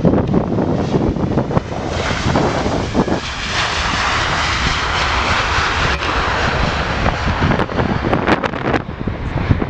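Jet airliner's engines passing, a broad rushing roar that swells about two seconds in, peaks mid-way and eases off, with wind buffeting the microphone throughout.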